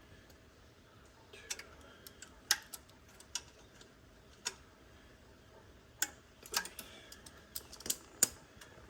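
Irregular light metallic clicks and taps of hand tools and small parts being handled while the secondary air pump's small mounting screws are snugged down, about fifteen clicks spread unevenly, a couple of them sharper than the rest.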